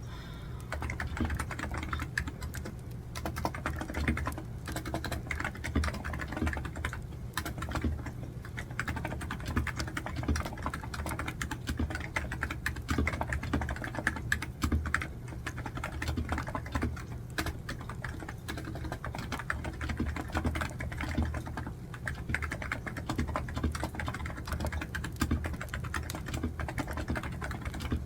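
Continuous typing on a computer keyboard: rapid, irregular key clicks with a few short pauses.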